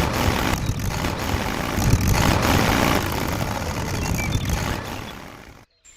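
Tractor engine running steadily with a low rumble, fading out near the end.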